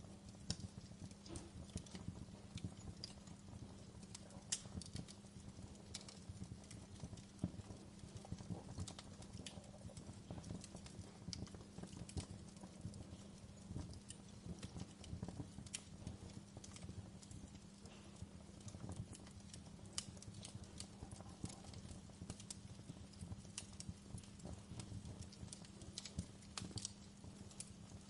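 Campfire burning: irregular crackles and pops of burning wood over a low, steady rumble.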